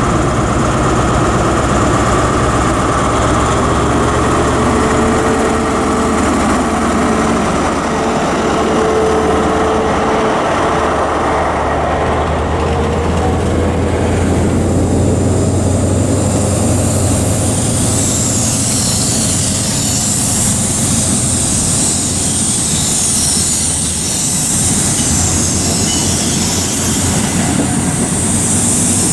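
High Speed Train pulling out: a Class 43 diesel power car's engine drones steadily under load for the first half, then the rolling noise of the coaches' wheels on the rails takes over as a steady hiss.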